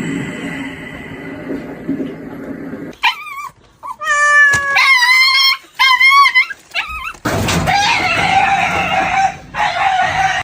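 A dog yelping and whimpering in a run of short, high, wavering cries about three seconds in, between stretches of rough noise before and after.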